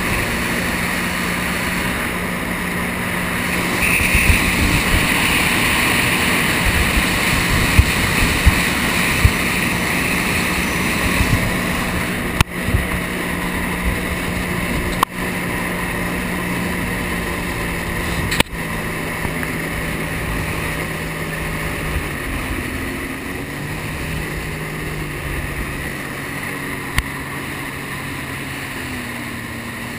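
Jet ski engine running steadily under way, over a constant rush of wind and water spray, with a few low thumps of the hull on the water early on. The engine note drops slightly about two-thirds of the way through as the throttle eases.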